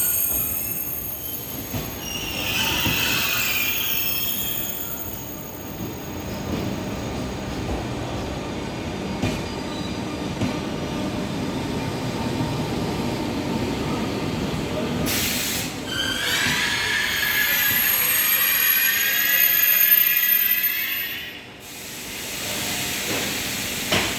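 TGV Duplex high-speed train braking as it pulls into the station, rumbling along with its brakes and wheels squealing shrilly. The squeal comes in twice: briefly a couple of seconds in, then longer and louder near the end, before it cuts off suddenly.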